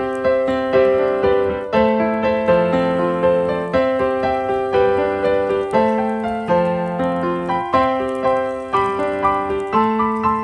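Background piano music: a gentle, steady run of notes, each struck and then fading.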